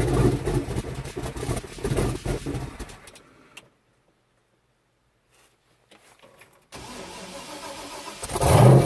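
Swapped-in 6.0-litre V8 in a Chevrolet S-10 pickup running, then stopping about three seconds in. After about three seconds of silence it is cranked for about a second and a half and fires up loudly near the end.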